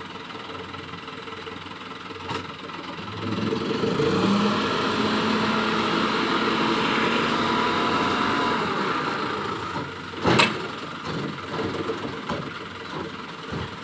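Toyota Dyna dump truck's diesel engine idling, then speeding up about three seconds in and holding at higher revs for several seconds before settling back. A single sharp bang follows near the end, then a few scattered knocks.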